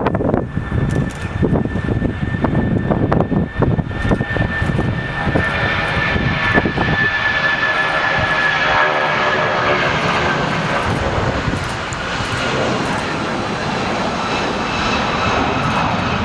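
A jet airliner's engines running loud, with a steady high whine that falls slightly over the last several seconds. Wind buffets the microphone in the first few seconds.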